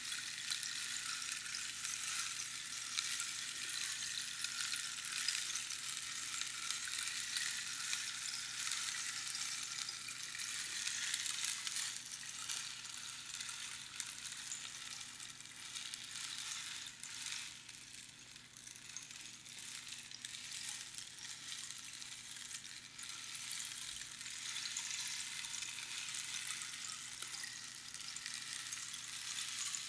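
Rainstick: small pebbles or beans cascading down the hollow tube past the inner pins, a steady rain-like crackling patter. It thins out a little past halfway, then builds again as the flow renews.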